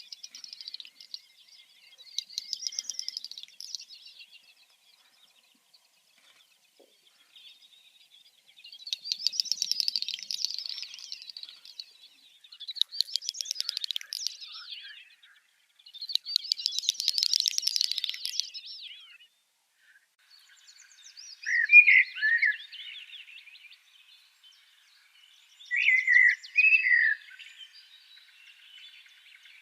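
Birds chirping: several bursts of rapid, high trilled chirps, each lasting two to three seconds, then a few shorter, louder warbled phrases lower in pitch in the second half.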